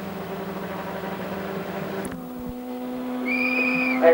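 Race car engine running at a steady pitch, cut off abruptly about two seconds in; a steady hum follows, with a short high whistle-like tone near the end.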